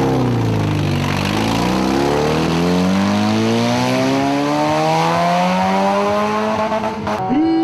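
A car engine at full throttle. Its pitch dips briefly, then climbs steadily for about six seconds in one long pull, over a hiss of spinning tyres. The sound changes abruptly near the end.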